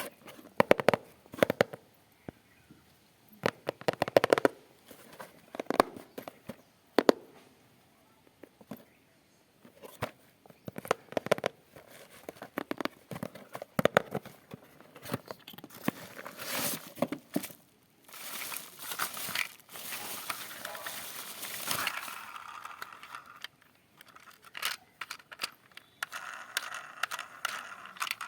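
Toy packaging being handled: crinkling and crackling plastic with clusters of sharp clicks, and a steadier rustling stretch about two-thirds of the way through.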